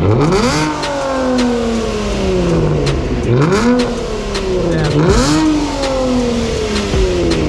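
Honda NSX engine revved hard three times, each rev climbing quickly and falling away slowly; loud.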